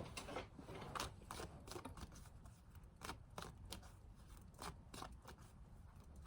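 Faint, irregular clicks and rustles of tarot cards being handled on a table.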